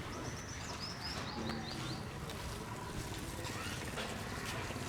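A bird chirping: a quick run of short, high chirps in the first two seconds, over a steady low outdoor rumble.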